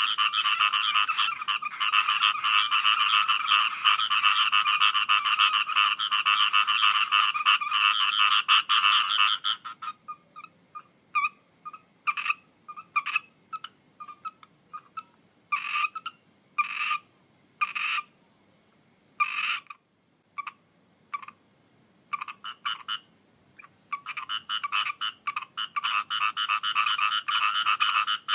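Chorus of frogs calling, many rapid pulsed croaks overlapping. About nine seconds in the chorus drops away to scattered single calls, then builds back into a dense chorus near the end.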